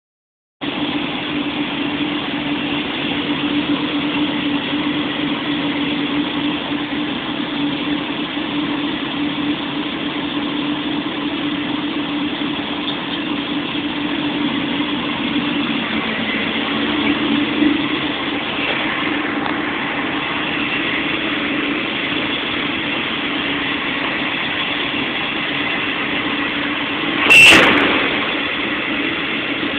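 1985 Chevrolet Monte Carlo SS with a stroked 350 small-block V8, idling steadily. A short, loud burst of noise comes near the end.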